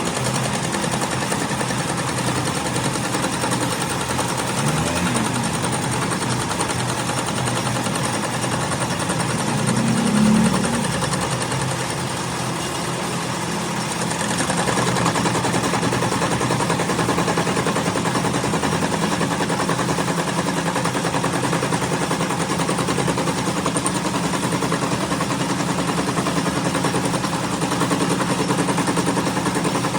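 Continuous rapid mechanical clatter with a brief swell about ten seconds in.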